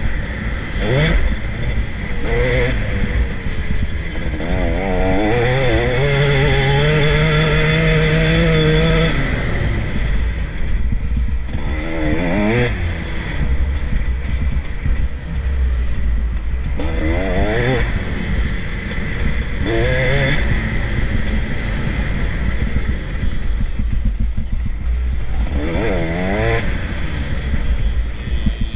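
Motocross bikes racing on a dirt track, engines revving up and falling away through gear changes as riders pass one after another. The longest, loudest rev comes from about five to nine seconds in.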